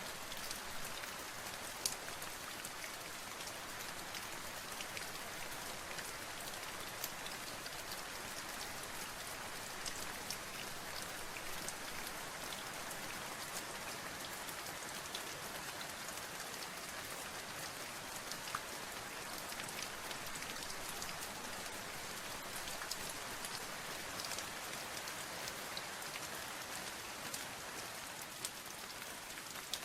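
Steady rain falling, with many separate drops ticking on a surface over a constant hiss.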